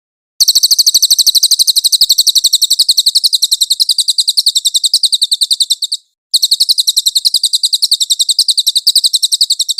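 Cililin songbird giving a rapid, very high-pitched trill of about ten notes a second, in two long runs with a short break about six seconds in. The recording is clean, with no background noise.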